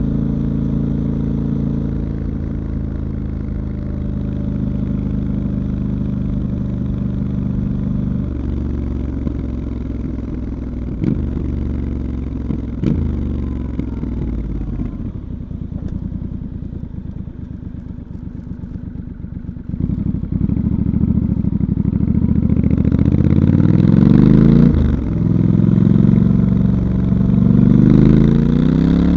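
Stock 2019 Triumph Scrambler 1200 XE's 1200 cc parallel-twin engine and exhaust under way. The revs ease off and fall for several seconds, with two short rev spikes about 11 and 13 seconds in, then climb again in rising sweeps from about 20 seconds in, pulling through the gears with a brief drop between sweeps.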